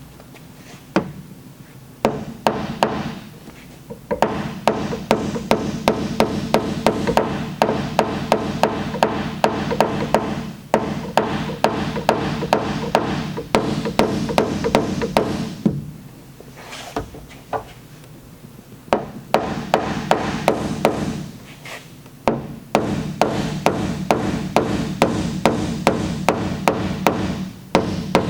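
Quick, steady light hammer taps on the steel liftgate panel, about three a second, each with a brief metallic ring. The taps come in runs broken by short pauses. The metal is being tapped down around a glue-pull tab while the lifter holds the body line under tension.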